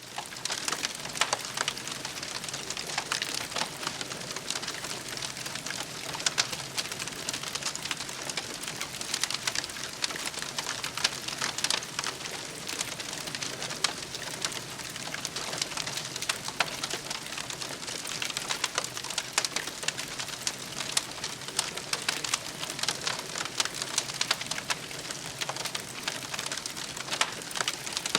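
Wood campfire crackling steadily, with frequent sharp pops scattered throughout.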